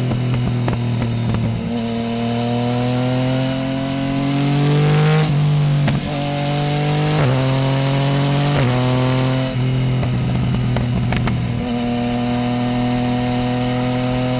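Yamaha Tracer 900 GT's three-cylinder engine through a full Roads Italia aftermarket exhaust without a dB killer, accelerating in several rising pulls, each broken by a short gap as it shifts gear. Near the end it runs at a steady speed.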